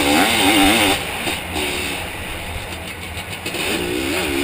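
Zabel 700 two-stroke sidecar-motocross engine running hard, its pitch wavering quickly up and down as the throttle is worked. It is loudest in the first second, then runs lower until it rises again near the end.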